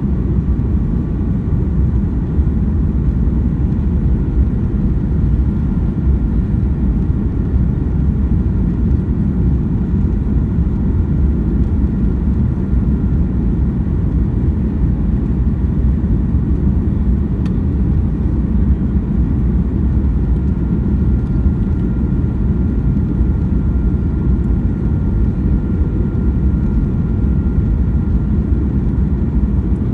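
Steady low rumble inside a Boeing 737-800's cabin in flight on approach: CFM56-7B engine noise and airflow, with a faint steady whine above it.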